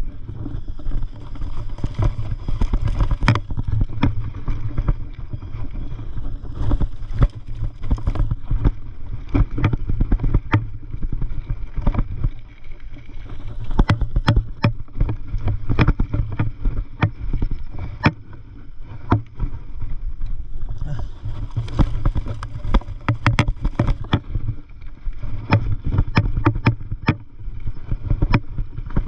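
Mountain bike riding a rough dirt trail: a steady low wind rumble on the microphone, with frequent sharp clicks and rattles as the bike goes over bumps.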